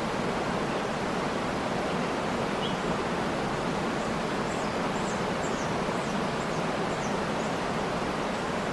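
Waterfall rushing in a steady, even roar of falling water. From about halfway through, a small bird gives a quick run of short, high, falling chirps, faint above the water.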